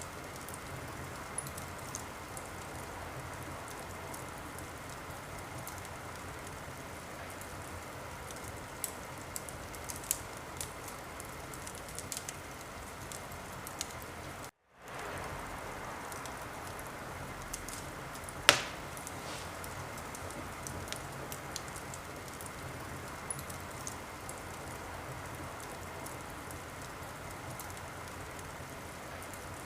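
Wood fire crackling in a fireplace: a steady hiss with scattered small pops and one sharp, loud pop a little past the middle. The sound cuts out completely for a split second just before the middle.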